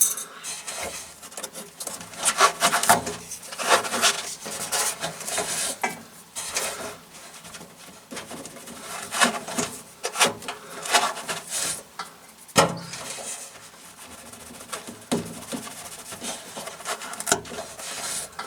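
Irregular rubbing and scraping handling sounds from a dish-washing sponge being trimmed and fitted with double-sided tape inside a washing machine.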